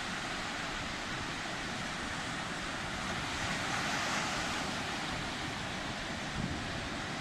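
Sea surf washing steadily, swelling a little about halfway through, with low wind rumble on the microphone near the end.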